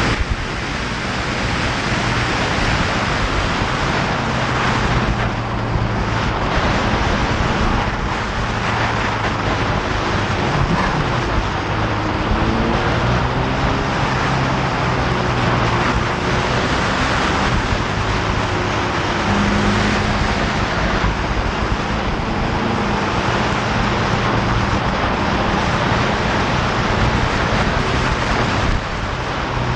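Motorcycle engine running at fairly steady cruising revs, its pitch shifting only slightly, buried under heavy wind rush on the microphone.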